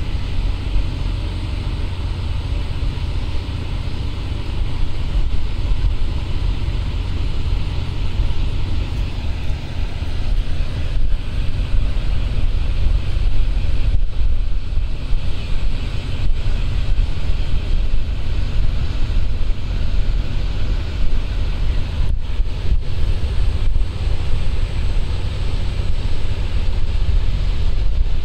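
Wind buffeting the microphone, a steady low rumble, over a broad hiss of moving water.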